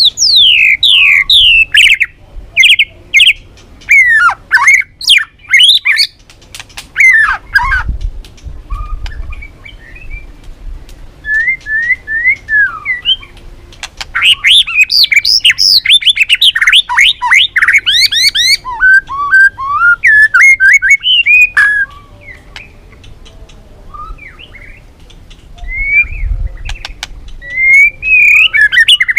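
White-rumped shama (murai batu) singing: quick whistled notes that glide up and down, with rapid trills. The song comes in loud bursts with softer phrases in between.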